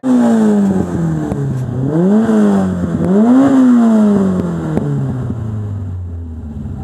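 Fiat 131 Mirafiori rally car's engine being revved. Its pitch falls from a high rev, is blipped up twice, about two and three and a half seconds in, then drops back steadily toward idle.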